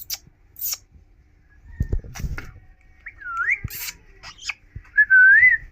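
Indian ringneck parakeet whistling: a short, winding whistle about three seconds in and a louder one near the end, with a few short sharp high-pitched chirps between. A few low thumps about two seconds in.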